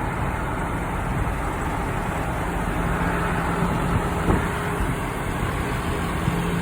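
Vehicle engine and road noise heard from inside a vehicle cabin, a steady rumble with a low hum that fades in and out.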